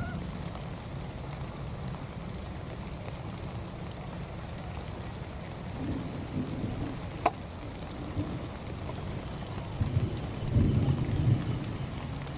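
Steady rain falling, with low rumbles about 6 seconds in and again near 10 to 11 seconds, and a single sharp click about 7 seconds in.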